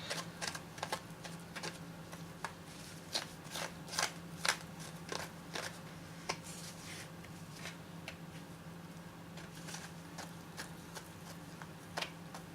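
Bondo body filler being mixed with hardener: irregular scraping and clicking strokes of the mixing tool against the mixing surface, busier in the first half and sparser later.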